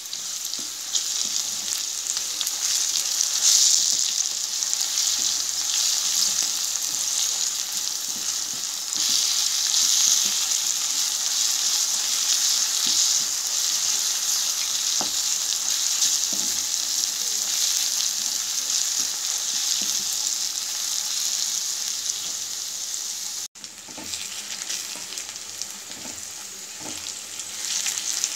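Oil sizzling steadily in a metal kadai as chana dal, onions and gongura leaves are stir-fried, with a wooden spatula scraping and knocking against the pan. The sizzle cuts out for an instant about three-quarters of the way through.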